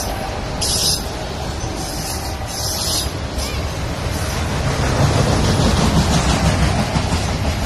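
Autorack cars of a CSX freight train rolling past close by: a steady rumble and clatter of wheels on rail, growing louder about five seconds in.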